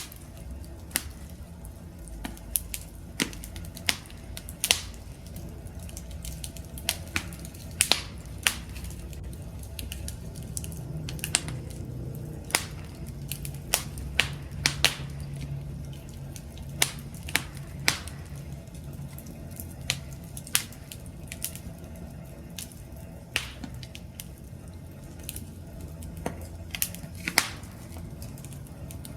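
Wood fire burning: a steady low rumble of flames with irregular sharp crackles and pops, several of them louder.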